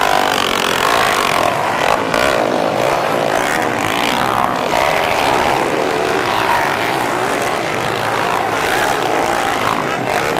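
Small underbone motorcycle engines racing on a dirt flat track, buzzing at high revs with the pitch rising and falling as they accelerate and back off.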